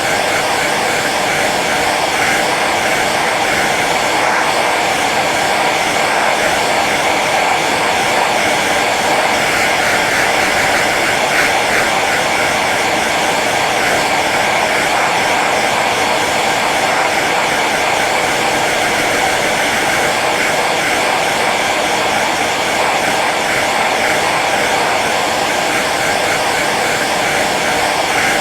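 Hair dryer running steadily on its low setting: an even rush of blown air with a faint motor hum.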